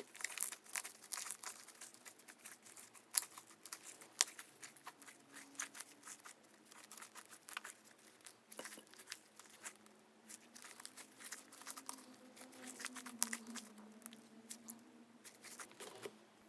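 Hands stretching and squishing clear slime, giving a dense stream of irregular sticky crackles and small pops.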